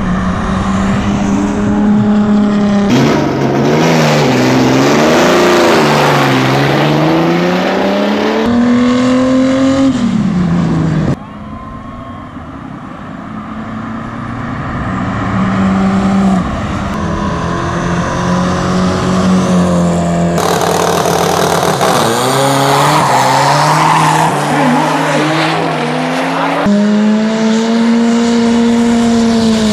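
Drag-racing cars' engines revving and accelerating hard, the pitch climbing and dropping repeatedly, across a string of short clips that cut abruptly from one run to the next.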